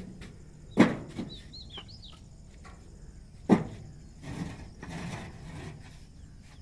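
Bricks being handled and set down on a stack: two sharp knocks about three seconds apart, with softer scraping and shuffling between them. A bird chirps a few times about a second in.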